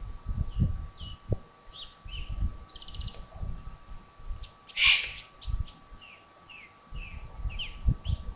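Bird calls at a Eurasian eagle-owl nest: a run of short, high, falling chirps about twice a second, and one louder, hoarse, rasping call about five seconds in. Low rumbling thumps and a faint steady hum lie underneath.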